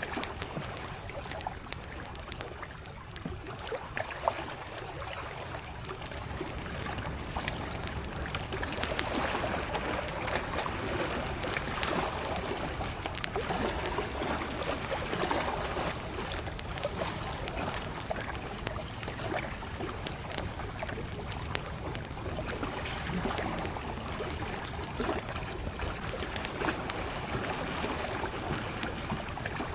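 Small lake waves lapping at the shore in a steady wash, with a wood campfire crackling in frequent sharp pops and ticks on top.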